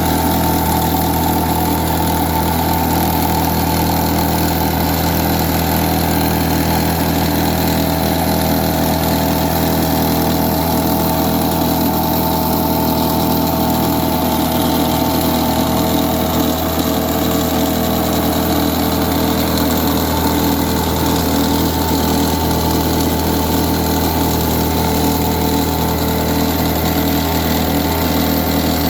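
Small grass-cutter engine running steadily at an even speed, driving a homemade generator.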